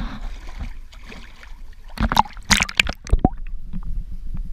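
Shallow seawater splashing and sloshing as someone wades and reaches into it, with a cluster of louder splashes about halfway through.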